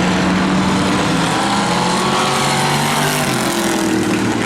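Several demo race cars' engines running hard as they race around the track. The engine notes swell and bend in pitch as the cars pass.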